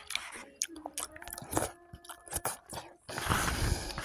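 A person chewing food, with repeated short wet mouth clicks. A louder noisy rush comes near the end.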